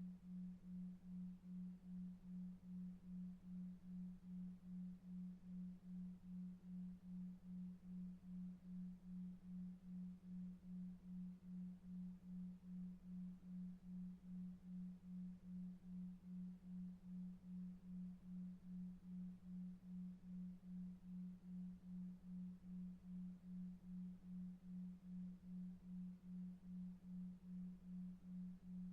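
Quiet, low, single steady tone pulsing evenly about two and a half times a second: a 2.5 Hz delta-wave sleep tone, over a faint low brown-noise rumble.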